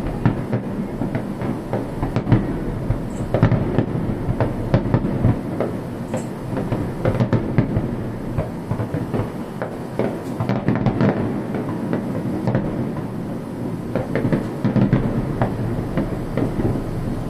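Aerial fireworks bursting in a dense, continuous run: many sharp cracks and bangs over a steady rolling rumble of booms.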